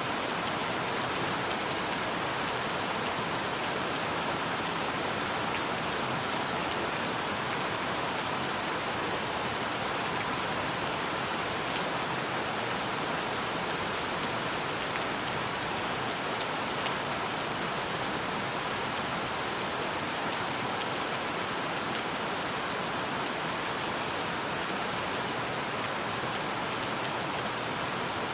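Steady rainfall: an even hiss of rain with scattered small drop ticks, unchanging throughout.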